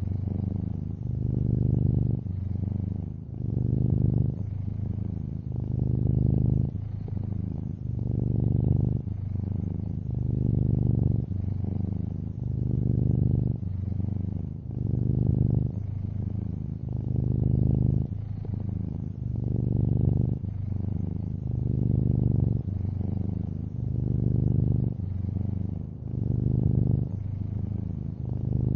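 Long-haired orange tabby cat purring steadily, the low rumble swelling and easing with each breath about every two seconds.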